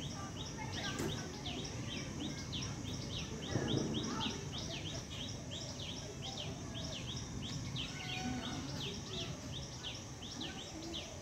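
A bird chirping over and over in quick, high, downward-sliding notes, about two or three a second, over faint outdoor background noise.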